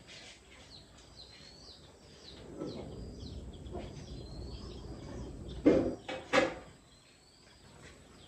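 Small birds chirping again and again in short calls that sweep quickly in pitch. Two brief, loud sounds come about two-thirds of the way in.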